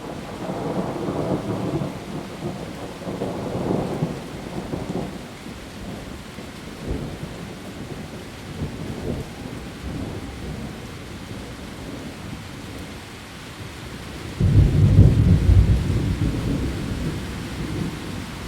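Heavy rain falling on leaves, with thunder rumbling through the first few seconds. About fourteen seconds in, a louder, deeper thunderclap breaks in and rolls on, fading toward the end.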